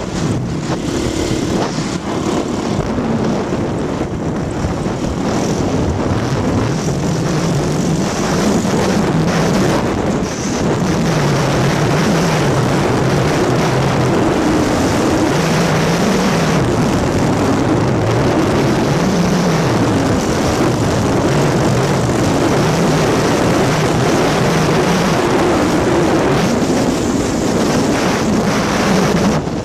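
Polaris Sportsman 500 ATV engine running while being ridden, its pitch rising and falling with the throttle.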